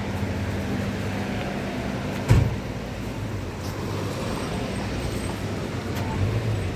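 A motor vehicle's engine running steadily with a low hum, and a single sharp knock a little over two seconds in.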